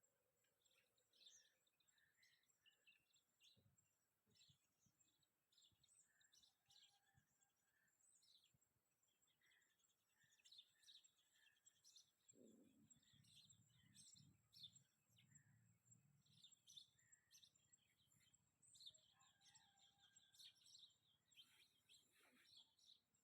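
Faint morning birdsong from several birds: many short chirps and trills, some in quick runs. A low rumble sets in about halfway through.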